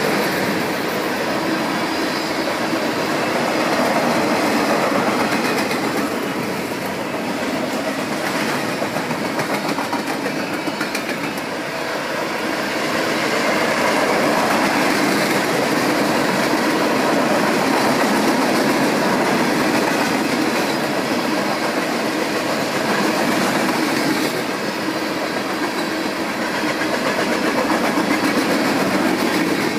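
A freight train of tank cars and covered hoppers rolls past close by: a steady rumble and clatter of steel wheels on the rails, with occasional clicks as the wheels cross rail joints.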